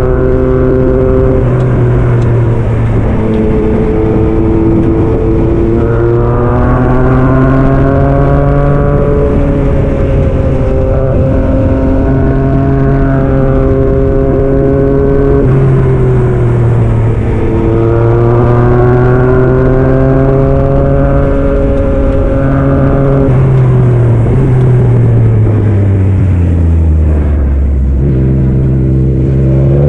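2022 Yamaha MT-09 SP's three-cylinder engine through a Black Widow aftermarket exhaust, accelerating hard through the gears: the pitch climbs and steps down with each shift several times. Near the end it drops in pitch as the bike slows, then picks up again.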